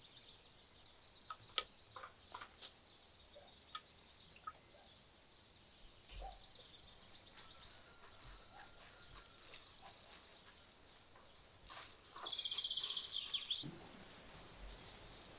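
A songbird sings one loud trilled phrase near the end, the same phrase it sang just before. Earlier there are a few scattered sharp clicks and taps over faint outdoor background noise.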